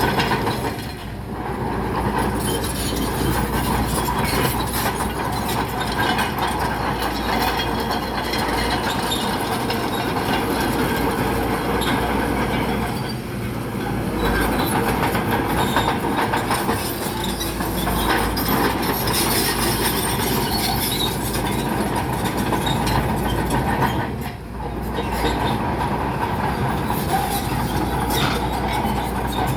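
Crawler bulldozer running under load, its steel tracks clattering and rock grinding, with three brief dips in level about a second in, near the middle and near the end.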